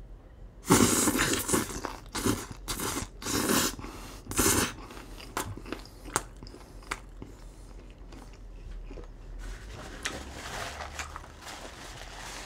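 A person chewing a mouthful of pork and green pepper stir-fry: loud crunching chews for the first four seconds or so, then quieter chewing with scattered clicks.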